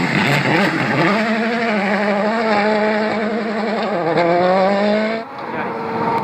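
Rally car engine running hard at high revs. Its pitch dips briefly about four seconds in and climbs again, as at a gear change. The sound cuts abruptly about a second later to another car's engine.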